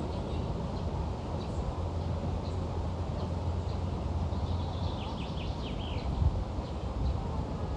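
Outdoor ambience: birds chirping over a steady low rumble, with a quick run of falling chirps about halfway through and a brief low thump near the end.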